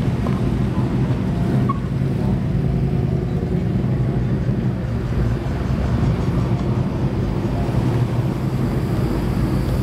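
Classic American cars passing slowly at close range, their engines running with a steady low rumble.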